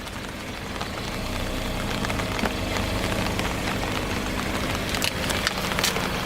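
Car engine running as the car rolls slowly forward, getting louder over the first couple of seconds, with a quick series of sharp cracks about five seconds in as something is crushed under a tyre.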